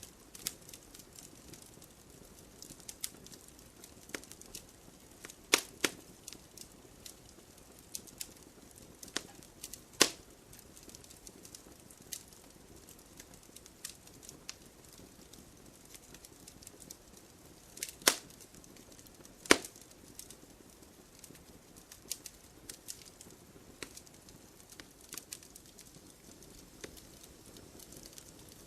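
Wood fire crackling: irregular small snaps over a faint hiss, with a few louder pops of burning wood, about four in all.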